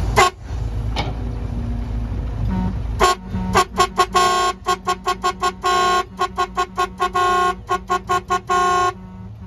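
A vehicle horn honking over and over in a rapid run of short toots mixed with a few longer blasts, starting about three seconds in and stopping abruptly near the end. Before it, a low engine rumble, with one brief toot right at the start.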